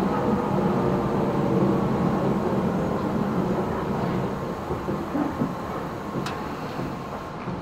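Running sound heard from inside a Tobu 10030 series electric train: wheels on the rails and motor noise with faint tones gliding downward, getting steadily quieter as the train slows. There is a sharp click about six seconds in.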